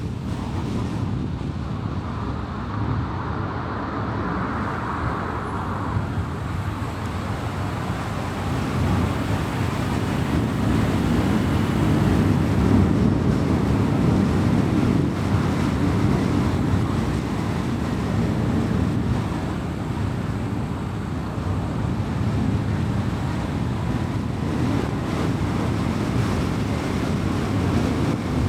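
A car driving on a highway: steady tyre and road noise with engine hum. It grows louder about a third of the way in and eases off again past the middle.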